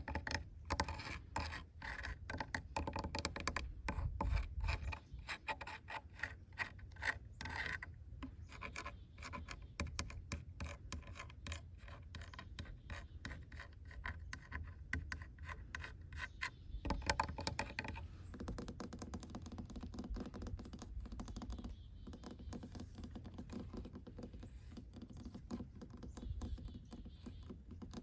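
Rapid, repeated scratching strokes on a rough surface, an ASMR scratching trigger. About two-thirds of the way through the strokes become softer and more even.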